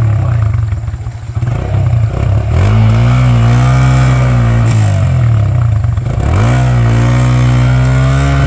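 Dirt bike engine revved hard twice, each time rising quickly, held high for a couple of seconds, then dropping back.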